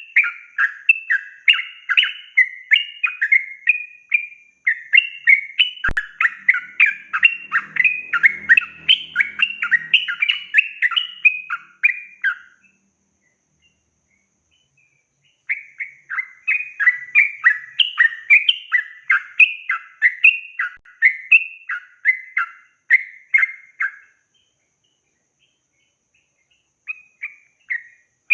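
Yellow-vented bulbul (trucukan) singing a long, rapid chattering song of quick repeated notes. It comes in two long runs with a pause of a few seconds between them, then starts again briefly near the end. There is a single sharp click about six seconds in.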